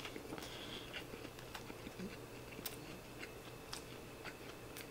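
Faint close-miked chewing of a mouthful of rice, heard as soft, irregular small mouth clicks.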